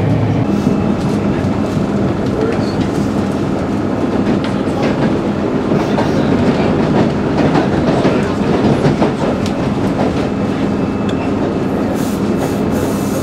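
Passenger train in motion, heard from inside the carriage: a steady running noise of wheels and running gear on the rails.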